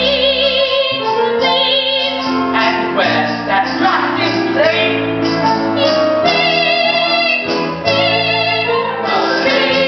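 Live stage-musical singing: voices with wavering vibrato, a woman's voice prominent, over instrumental accompaniment.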